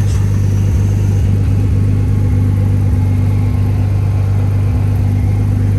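An engine running steadily at idle: a constant low hum with no change in speed.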